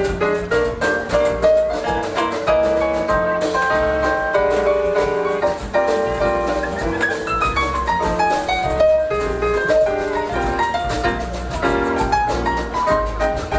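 A live jazz combo of piano, bass and drums playing, with the piano to the fore. A run of notes falls in pitch about seven seconds in.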